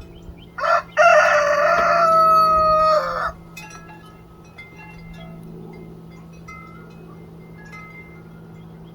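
A rooster crowing once, about a second in: a short opening note, then one long loud call that drops in pitch as it ends.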